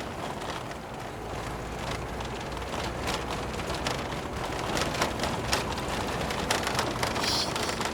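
Road noise inside a moving car: a steady rumble of tyres and engine with scattered ticks and knocks from the road surface.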